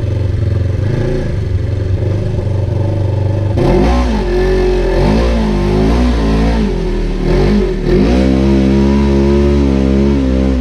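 Off-road vehicle engine running steadily, then from about three and a half seconds in revving up and down repeatedly for several seconds, before holding a steady, higher engine speed near the end.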